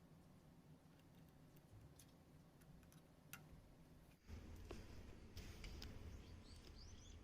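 Near silence with a few faint scattered clicks. About four seconds in, the background changes to a faint low rumble with a few short high chirps near the end.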